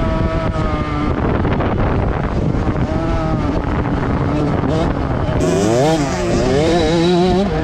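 Motocross dirt bike engines running hard on the track, several at once. From about five and a half seconds in, a nearer bike revs up and down in quick repeated swings as the rider works the throttle.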